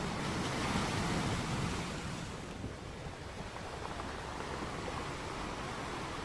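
Ocean surf: a wave breaks and washes in, loudest in the first couple of seconds, then settles back into a steady rushing hiss.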